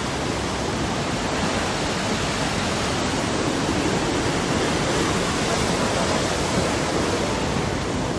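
Steady, loud rushing of water, an even roar with no breaks or rhythm, such as floodwater pouring after heavy rain.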